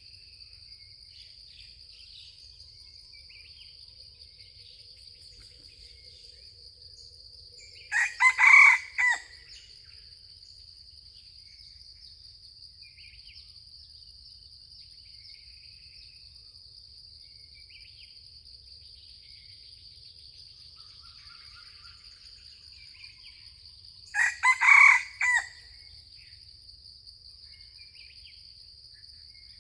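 Red junglefowl rooster crowing twice, about 16 seconds apart. Each crow is a short, clipped call of about a second. A steady high-pitched insect drone and small bird chirps run underneath.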